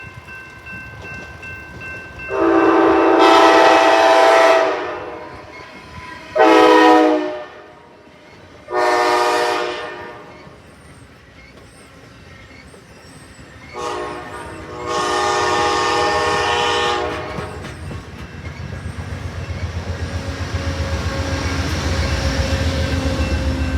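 Train horn sounding a series of chord-like blasts, the first and last long, with shorter ones between. Then the low rumble and rhythmic wheel clatter of the train builds as it draws near.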